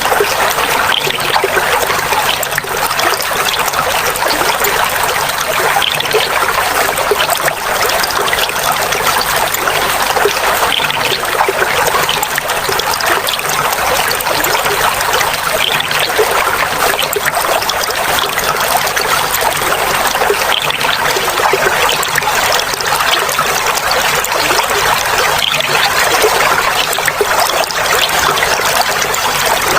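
Clear water flowing and trickling steadily, a continuous babbling splash with no pauses.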